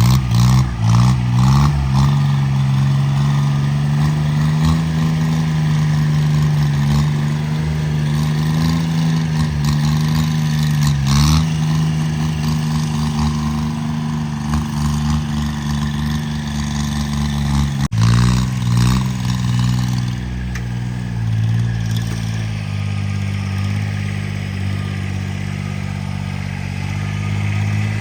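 Homemade tractor's engine running steadily at a constant note, with rhythmic surging in the first two seconds and a brief break in the sound about eighteen seconds in.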